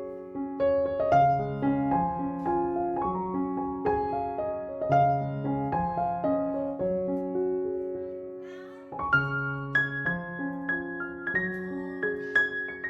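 Background piano music: a gentle, repeating pattern of struck notes and chords. It thins out briefly about eight to nine seconds in, then picks up again.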